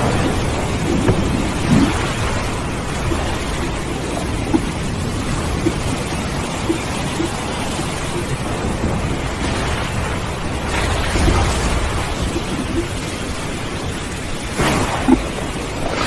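Steady rain with thunder: a low rumble swells about two-thirds of the way in, and a sharper crack comes near the end.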